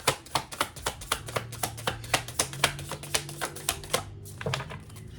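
A deck of tarot cards being shuffled by hand, a quick run of light card taps and flicks about five a second that stops about four seconds in.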